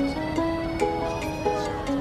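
Background music from the drama's score: a slow melody of held notes stepping from one pitch to the next.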